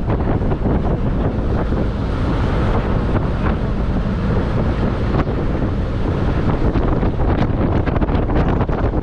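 Loud wind buffeting the microphone, a steady rushing roar heaviest in the low end, from riding on the outside of a moving vehicle.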